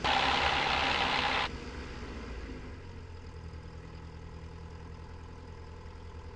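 Cessna 172's piston engine running at run-up power with carburettor heat pulled, giving a small RPM drop, then settling into a lower, steady idle about three seconds in. A burst of hiss over the headset intercom fills the first second and a half.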